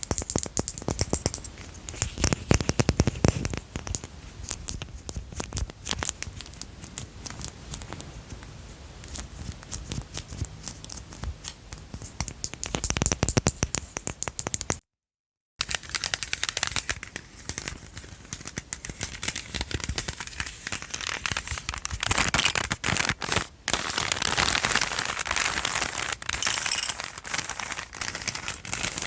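ASMR tapping and handling of small household objects: a rapid, uneven patter of taps and clicks. After a brief cut about halfway through, it turns to a denser crinkling, crackling sound.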